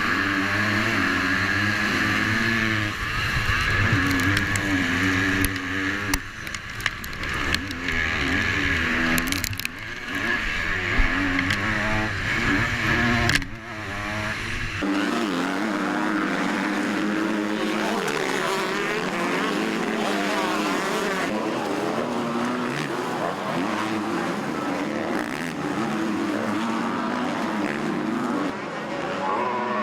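Motocross bike engines racing, the pitch climbing and falling over and over as riders open and close the throttle. About halfway through, the deep rumble drops out suddenly and a lighter engine note carries on.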